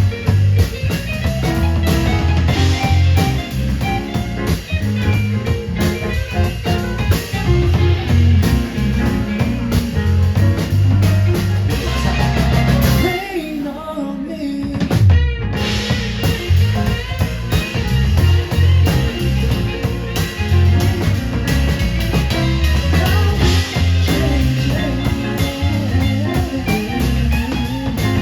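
Live band playing an instrumental passage of a pop-rock song, with drum kit and guitar. About halfway through the band briefly drops out to a thinner sound, ending in a falling sweep, then comes back in full.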